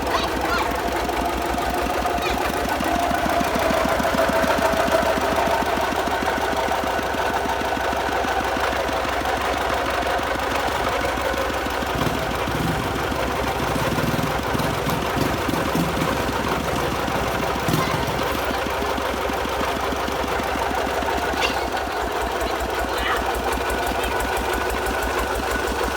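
Small farm tractor engine running steadily with a rapid, even knocking beat.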